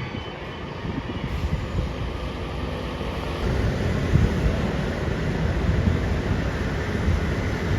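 Low, steady rumble of an emergency vehicle's engine, with wind buffeting the microphone.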